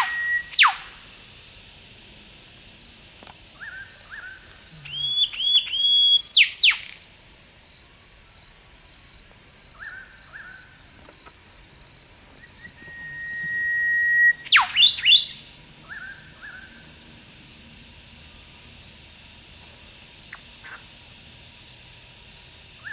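Eastern whipbirds calling: three times a long whistle or a few high notes ends in a sharp whip-crack that sweeps down fast, about half a second, six seconds and fourteen seconds in. The last crack is followed at once by a quick run of answering notes. Shorter whistled notes come between the cracks, over a steady high hiss.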